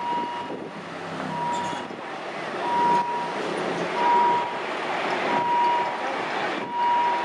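Electronic warning beeper sounding one steady tone about every second and a quarter, over continuous vehicle engine and traffic noise.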